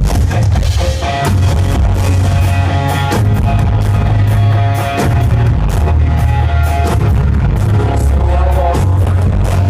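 Live band playing loud rock-pop through a PA, with a steady drum beat, heavy bass and guitar, before the vocals come in.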